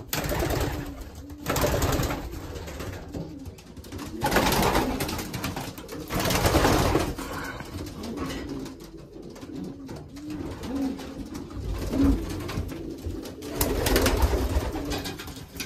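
Racing pigeons cooing in a loft, a low rolling coo repeating throughout, interrupted several times by loud rustling bursts about a second long.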